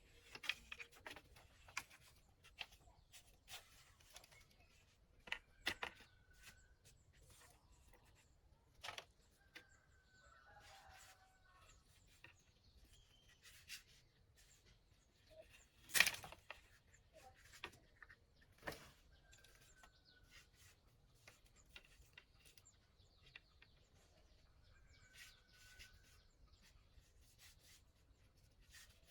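Scattered knocks and taps, the loudest a single sharp knock about halfway through, with short, faint bird calls recurring every few seconds.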